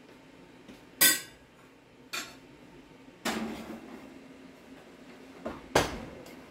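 Kitchen clatter of dishes and utensils: four sharp knocks and clinks a second or so apart, one ringing briefly about three seconds in.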